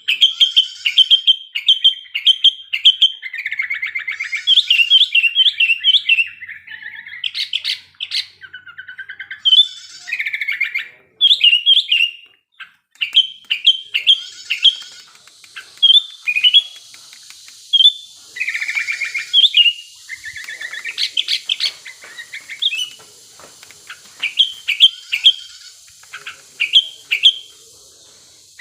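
Sooty-headed bulbul (kutilang) singing vigorously in quick bursts of short, sharp chirping notes mixed with lower warbled phrases, the excited song of a bird in breeding condition.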